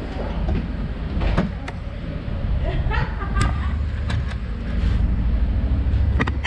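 Motorcycle engine running with a steady low rumble, with a few sharp clicks scattered through it.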